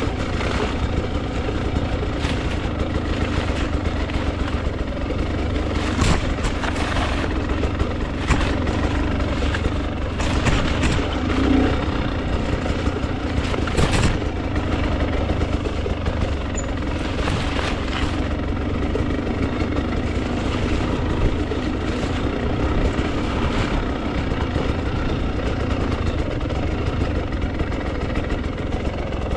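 Two-stroke dirt bike engine, a Husqvarna TE 300, running steadily through the whole stretch, with occasional sharp knocks over it.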